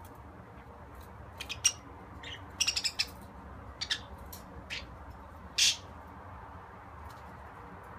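Budgerigar chirping in short, scattered high calls, with a quick run of chirps about two and a half seconds in and one longer call a little before six seconds.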